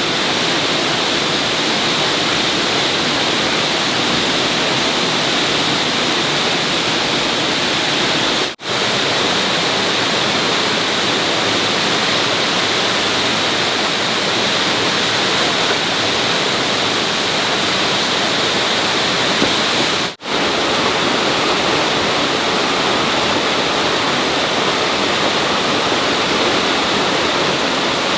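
Steady, loud rushing hiss with a stronger high band, unbroken except for two very short dropouts, about a third and two thirds of the way through.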